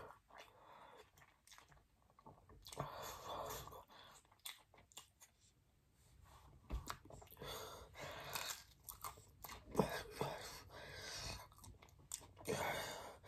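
Close-up mouth sounds of a person eating pizza: chewing, smacking and sucking on fingers as she licks them, in irregular clusters with a short lull about five seconds in.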